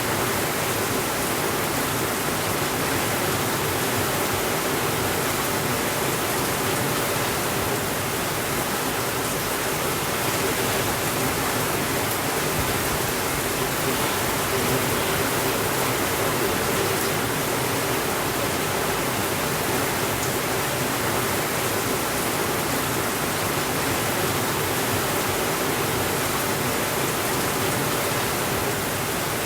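Steady rainfall, a dense even hiss that holds without change or thunder.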